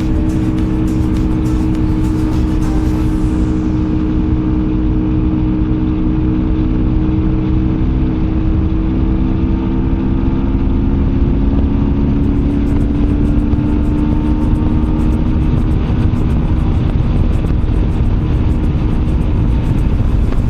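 Motorcycle engine running at a steady cruise, its pitch drifting slowly up and down with road speed, under a constant low rumble of wind and road noise.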